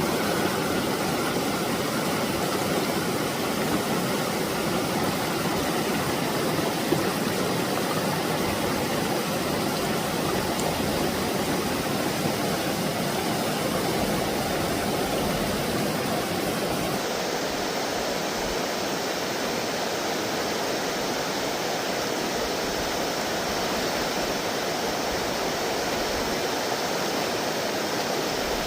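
Steady rush of flowing stream water, with an abrupt change in its tone a little past halfway.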